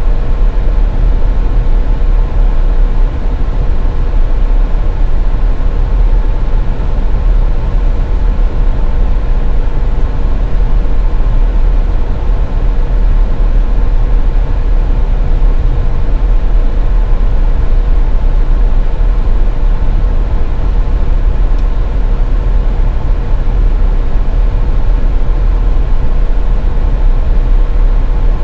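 Steady low rumble of a car being driven on a highway, with a faint steady hum running through it.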